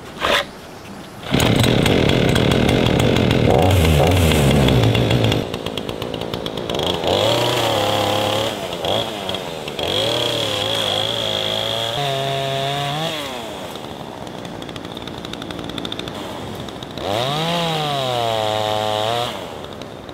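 Chainsaw starting about a second in, then running: its revs rise and fall repeatedly as it cuts into a fallen tree, dropping back to a lower steady speed between cuts.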